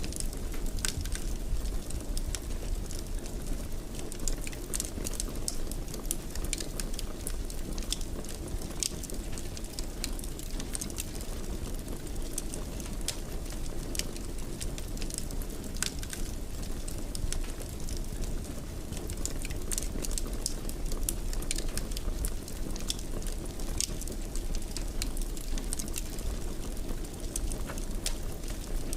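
Fire crackling in a fireplace: a steady low rumble with frequent, irregular sharp pops and snaps.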